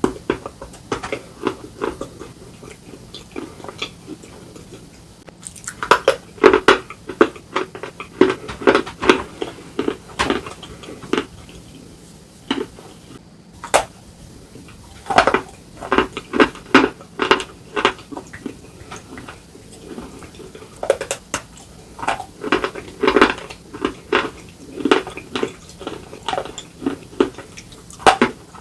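Slate pieces being bitten and chewed up close: clusters of sharp, crisp crunches with short quieter pauses between them.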